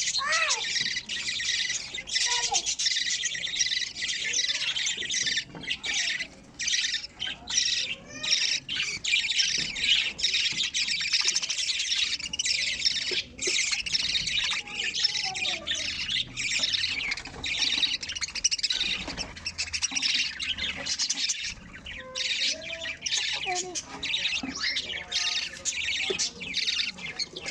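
Budgerigars chattering and squawking nonstop, a dense stream of harsh, high-pitched calls.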